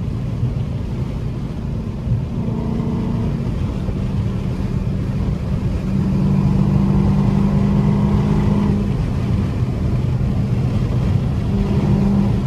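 Straight-piped Dodge Charger Scat Pack's 392 HEMI V8 droning steadily at highway speed, getting louder about halfway through.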